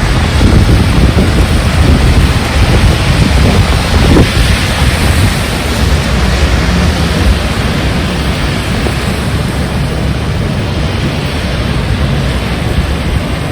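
Heavy rain and strong wind, the gusts buffeting the microphone with a deep rumble under a steady loud rush; it eases slightly about halfway through.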